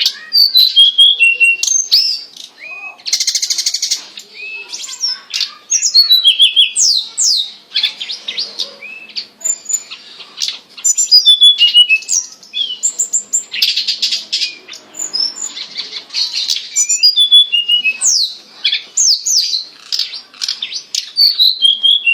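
Tledekan gunung (sulingan gunung) songbird singing continuously: rapid, varied high whistled notes that sweep up and down, broken by several dense, buzzy trilled passages.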